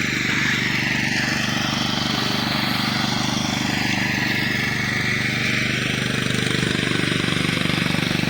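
Tractor engine running steadily at a constant speed, with an even, rapid firing pulse.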